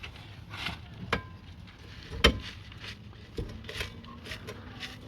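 Hand tools knocking and clinking on metal while working at a seized part: scattered light clicks, with two sharper knocks, the louder about two seconds in.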